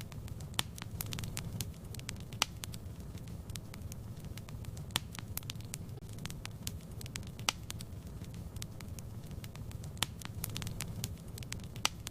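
Fire burning in a fireplace, crackling steadily with scattered sharp pops, a few louder ones every couple of seconds, over a low rumble of the flames.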